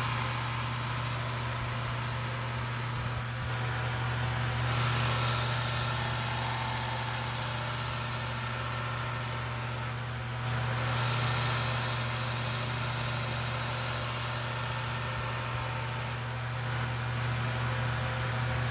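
Powered knife-sharpening grinder running with a steady low hum, as a blade is held to the abrasive at about 23 to 27 degrees. A high grinding hiss comes in three long passes, broken by short pauses about 3 seconds in, about 10 seconds in and near the end. The grinding is working the edge down until a burr forms.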